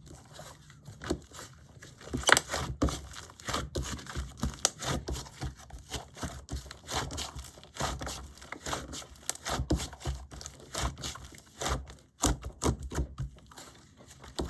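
Clay slime being squeezed and poked by hand, making a run of irregular crackling and popping clicks. The clicks vary in loudness, with one sharper pop about two seconds in.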